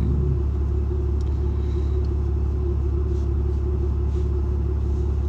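Steady low rumble of a truck's engine, heard from inside the cab.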